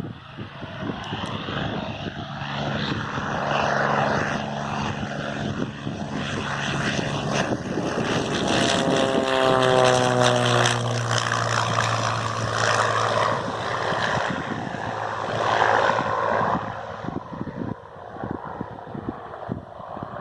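Agricultural crop-spraying airplane's propeller engine passing low: the sound builds, its pitch drops as it goes by about halfway through, then it fades away.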